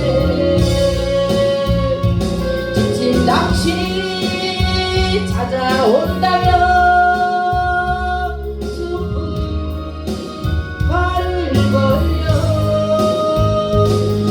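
A solo voice singing a gospel hymn over an instrumental backing, holding long notes with a few sliding swoops between them.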